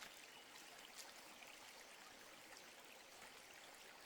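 Near silence: a faint, steady outdoor background hiss with a few faint ticks.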